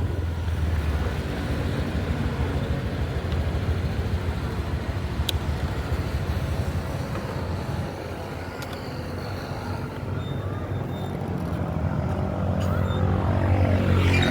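Motor vehicle engine running steadily with road traffic noise. It dips slightly in loudness around the middle, then grows louder near the end.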